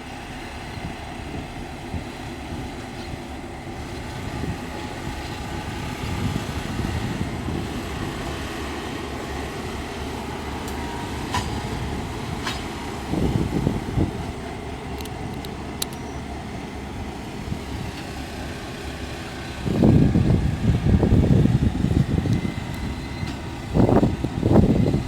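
Train running with a steady rumble, with gusts of wind buffeting the microphone about halfway through and again in the last few seconds.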